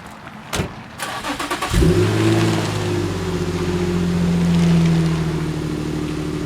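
Infiniti G35's 3.5-litre V6 with a Borla cat-back exhaust being started: a click, about a second of starter cranking, then the engine catches with a flare near two seconds in and settles into a steady idle.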